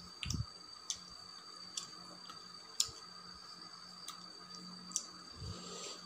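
Close-miked mouth sounds of someone chewing a mouthful of rice eaten by hand: sharp, wet lip-smacks and clicks, about one a second, with a couple of soft low thumps, the first just after the start and the second near the end.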